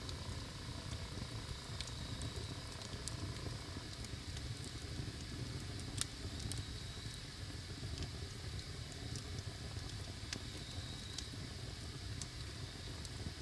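Wood fire burning: scattered crackles and pops over a steady low rumble, the sharpest pop about six seconds in, with brief faint hissing now and then.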